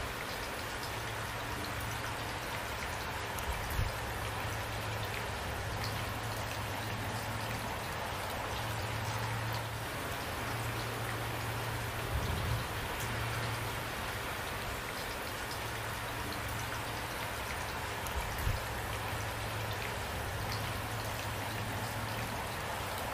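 Steady heavy rain falling at night, an even patter with a low hum that comes and goes beneath it. A few soft low thumps stand out, about three times.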